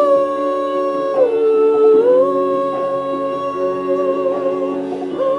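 A female singer holding a long wordless "ooh" over sustained instrumental backing, her note dipping lower for about a second and rising back, then breaking briefly near the end before resuming.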